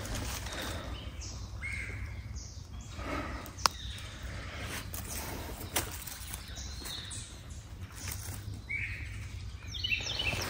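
Short bird calls scattered through, over a steady outdoor hiss, with two sharp clicks, one about a third of the way in and one a little past halfway.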